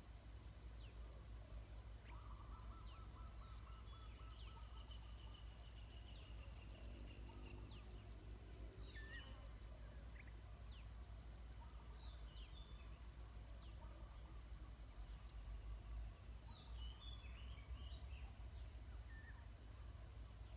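Faint wild birdsong: scattered short trills, chirps and quick downward-sweeping notes from several birds, over a steady high-pitched insect drone and a low rumble.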